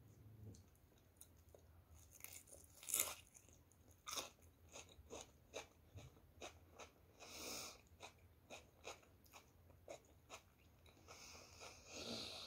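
Close-up chewing of a crunchy battered fried onion piece: a loud crisp bite about three seconds in, then a run of small crunches. Two breathy puffs through the nose, one midway and one near the end.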